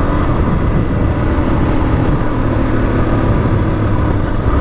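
Suzuki DRZ's single-cylinder four-stroke engine running steadily under way, with wind rush on the microphone. The bike is being ridden with the choke half out because it won't idle otherwise.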